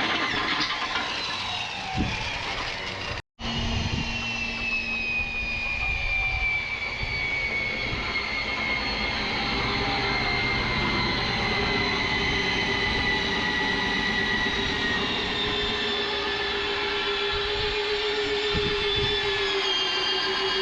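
Steady mechanical noise with slowly drifting whines, one high whine gliding gently downward, and a few short knocks; it breaks off completely for a split second about three seconds in.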